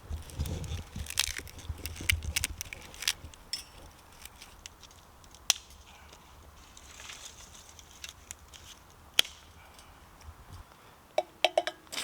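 Dry twigs snapping and crackling as they are broken up to start a small twig stove, with scattered sharp cracks. A few light metal clinks come near the end.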